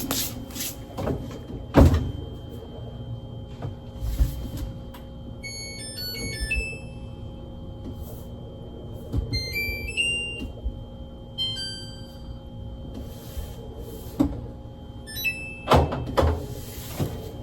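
Four short runs of quick, high electronic beep notes, each a brief stepped tune, over a steady low hum, with a few thumps between them.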